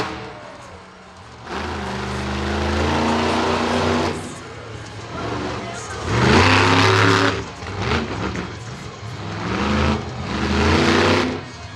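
Monster truck engine revving hard in three long bursts, each climbing in pitch before dropping back. The loudest burst comes about six to seven seconds in.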